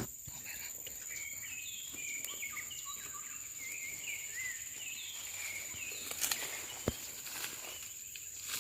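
A bird singing a quick string of short chirps for several seconds over a steady, high-pitched insect drone, with two sharp clicks near the end.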